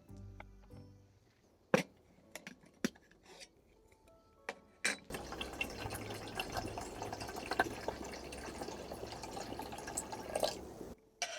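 A few sharp clicks and knocks, then water poured or running with dripping and splashing for about six seconds, stopping suddenly near the end.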